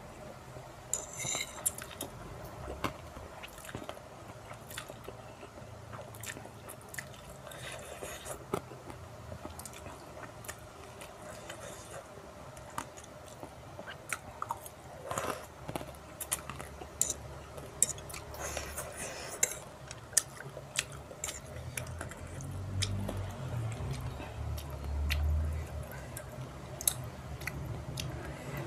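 Close-up eating sounds of fried instant noodles: chewing and slurping, with many short, sharp wet mouth clicks and an occasional clink of a metal fork on the plate.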